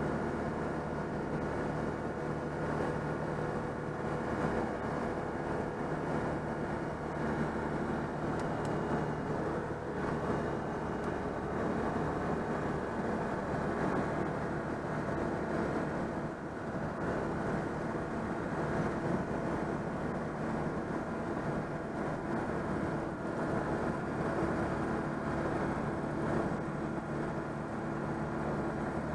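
Citroën 2CV's small air-cooled flat-twin engine running at a steady cruising speed with the car under way, along with road noise.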